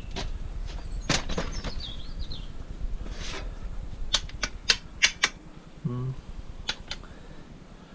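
Scattered sharp clicks and knocks of scrap metal being handled and taken apart, with a quick run of taps around the middle.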